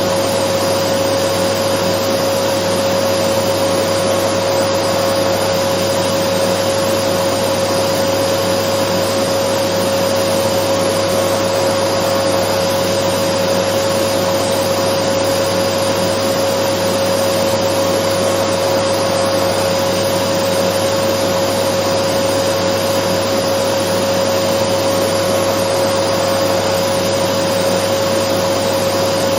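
Dyson vacuum cleaner running steadily: an even rush of air with a constant whine on top, used as white noise.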